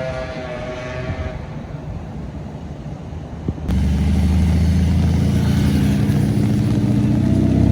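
Engine of a heavy road vehicle running close by. About four seconds in the sound jumps abruptly to a much louder, deep engine drone, which rises in pitch near the end as the vehicle accelerates.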